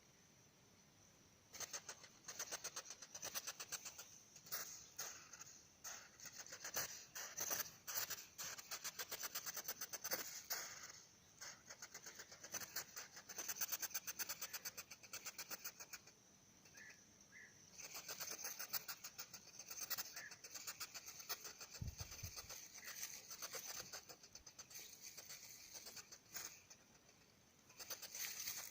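Hedgehog snuffling and huffing: trains of rapid short puffs and sniffs, coming in bursts with brief pauses.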